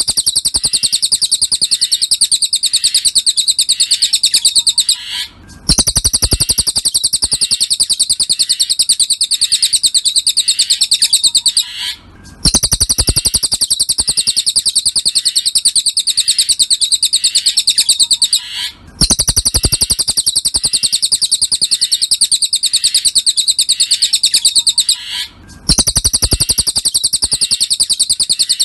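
Cililin songbird singing a very rapid, high-pitched chattering trill in long phrases of about six seconds, each separated by a brief pause, repeating evenly like a looped tutor recording.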